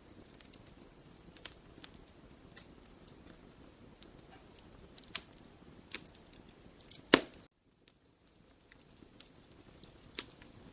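Wood fire crackling in a fireplace: scattered sharp pops and snaps over a low steady hiss, with one much louder pop about two-thirds of the way in, after which the sound drops out for under a second.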